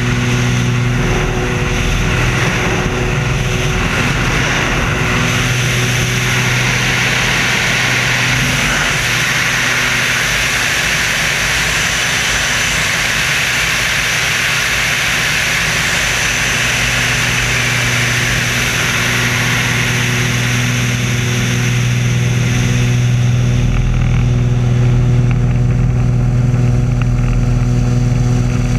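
Screamin' Sasquatch, a jet-assisted Waco biplane, with its engine running steadily in flight and wind rushing past. The drone grows a little louder about two-thirds of the way through.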